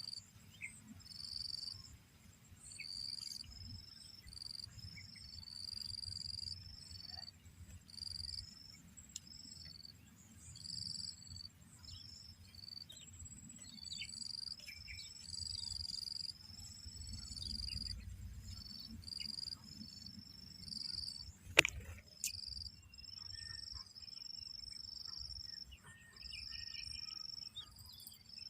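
Short, high-pitched chirps repeating irregularly, one or two a second, over a faint low rumble, with a single sharp click about three-quarters of the way through.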